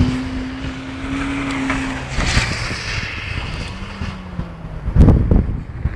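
Car engine heard at a distance, held at steady revs for the first couple of seconds, then at a lower, steadier pitch, as the car slides across an icy lot. Wind rumbles on the microphone throughout, with a loud thump about five seconds in.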